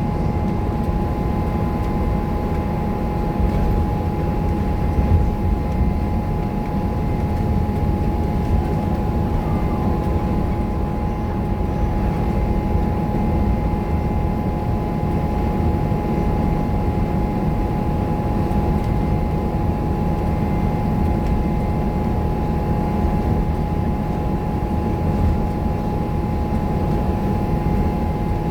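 Scania K230UB bus running steadily under way: an even low engine rumble with a steady high whine over it and no marked revving.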